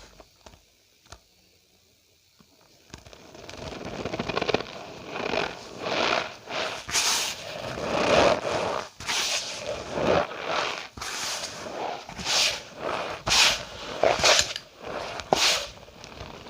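Cornstarch powder squeezed and pressed by hand, giving squeaky crunches. They start about three seconds in and come as separate strokes roughly once a second, growing louder.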